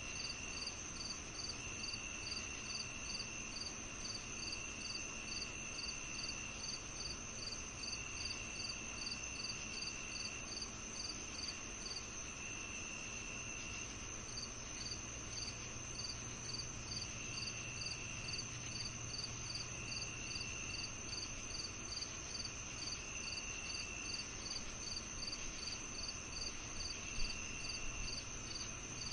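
Summer evening chorus of crickets and other insects: a steady high-pitched trill, a regular chirping about two or three times a second that stops for a moment midway, and a lower trill of a second or two repeating every few seconds. There is one short tick near the end.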